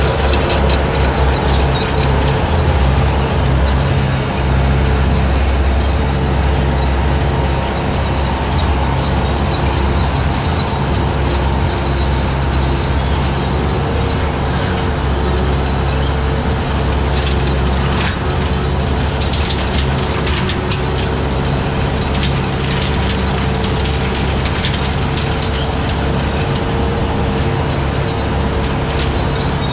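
Skid steer engine running steadily at working speed, driving a 72-inch hydraulic brush cutter, with a steady mid-pitched whine over the low drone. A few short crackles come in the middle.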